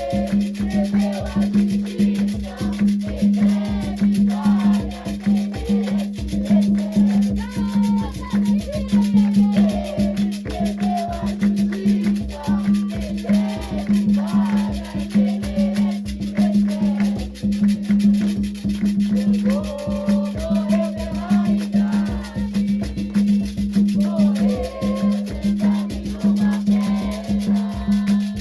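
Afro-Brazilian religious music: hand drums and shaken percussion keep a steady dense rhythm under voices chanting a melody. A constant low hum runs underneath.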